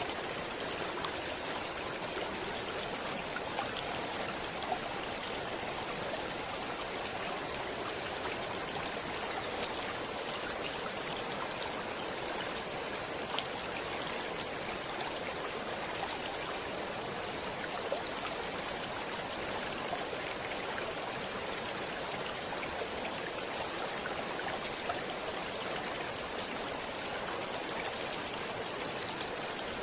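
A stream flowing steadily, a continuous rush of water with occasional small splashes.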